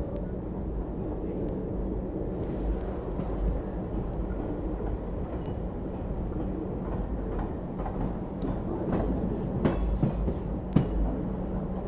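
Passenger train hauled by twin ALCO WDM-3D diesel locomotives running along the track: a steady low rumble and hum with clacks of the wheels over rail joints, and a couple of sharper knocks near the end.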